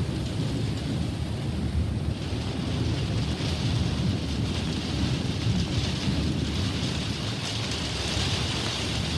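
Steady rain with continuous low rolling thunder rumbling underneath, near-constant, with no single sharp crack.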